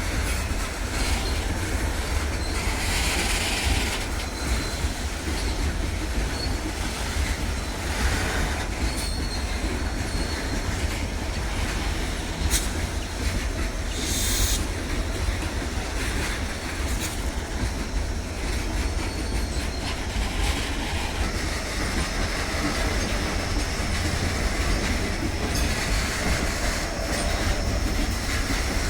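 A long goods train of loaded coal hopper wagons rolling past: a steady heavy rumble of wheels on rail, with a faint high wheel squeal now and then.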